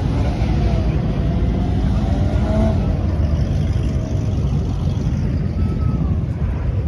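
Car engines running at a car meet: a steady low rumble with faint rising and falling engine pitches in the first few seconds.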